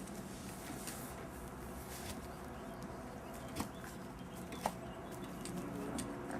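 Young puppies playing and moving about: scattered small clicks and scuffs over a steady low hum, with two sharper knocks about three and a half and four and a half seconds in.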